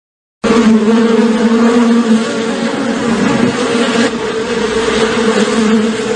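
Cartoon sound effect: a loud, steady buzz held at one pitch, starting suddenly about half a second in after dead silence.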